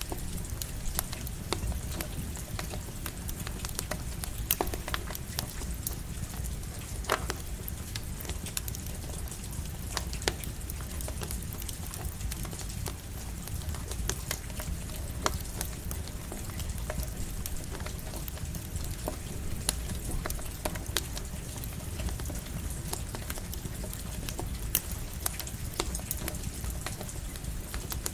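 Campfire crackling, with irregular pops and snaps over a steady low rumble, and light rain falling.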